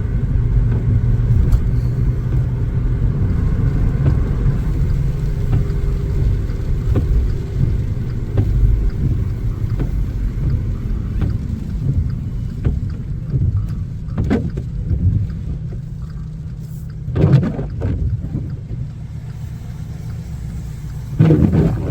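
Car cabin road and engine rumble, steady and low, easing off in the last third as the car slows. Three short louder sounds break in near the end.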